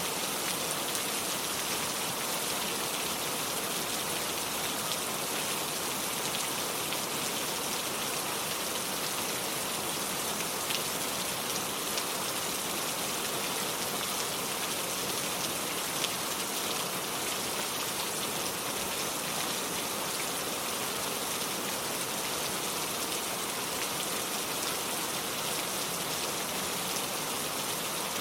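Steady rain falling, an even hiss with a few sharper single drops standing out now and then.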